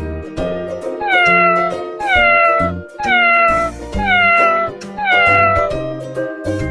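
A cat meowing five times, about once a second, each meow falling in pitch, over upbeat background music.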